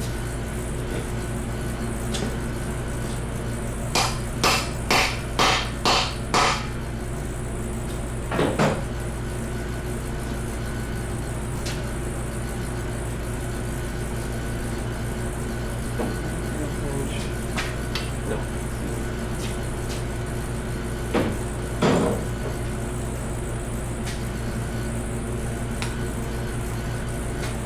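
Hammer striking metal: a quick run of about six taps, then a pair, then two more near the end, over a steady low hum.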